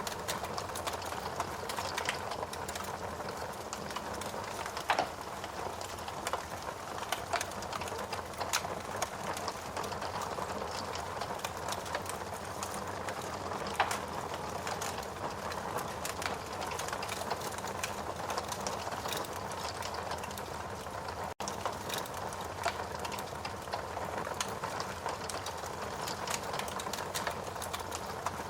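Logs burning in a fireplace: a steady soft hiss with irregular crackles and an occasional sharper pop. The sound drops out for a split second about two-thirds of the way through.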